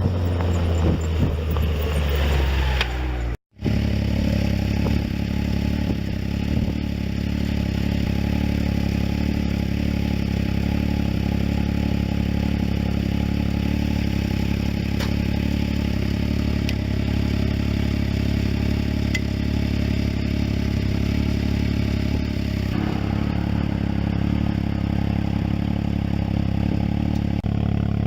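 Can-Am Maverick X3's turbocharged three-cylinder engine, its revs falling for about three seconds, then after a cut running steadily at idle.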